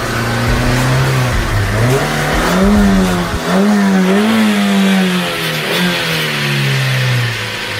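Car engine revving up and down several times, its pitch rising and falling in repeated swells.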